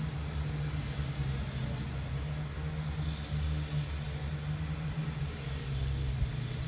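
TransPennine Express Class 350 Desiro electric multiple unit pulling away from the platform, heard as a steady low rumble.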